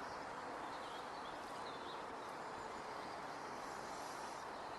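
Steady outdoor background noise with faint birdsong chirps about a second in.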